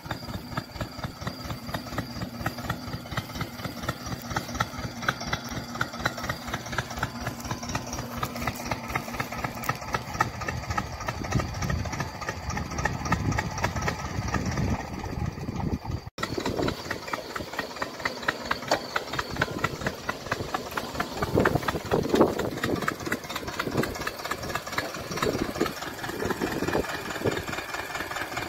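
Homemade tractor's engine running steadily with a rapid, even firing beat, broken once by a brief gap about halfway through.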